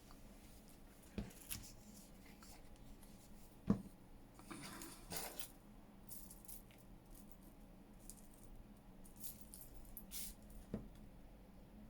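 Faint handling of paper and card on a tabletop: a few soft rustles and slides of paper, with three light knocks, the loudest about four seconds in.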